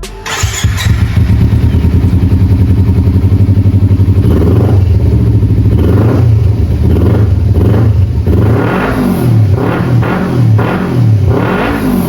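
Motorcycle with an aftermarket Yoshimura exhaust starting up, idling with a fast steady pulse, then revved in repeated short blips from about four seconds in, each rising and falling.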